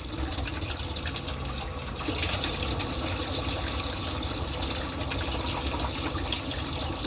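Water running steadily from a kitchen tap, a little louder from about two seconds in.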